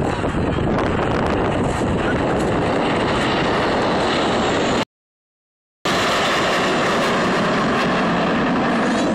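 BAE Hawk T1 jets of the Red Arrows flying past, a loud, steady jet noise from their Adour turbofans. The sound drops out completely for about a second around five seconds in.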